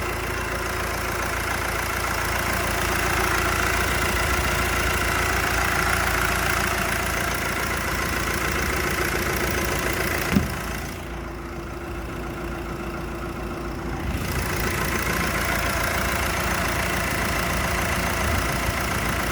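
2008 Nissan Navara engine idling steadily, with a single sharp click about ten seconds in.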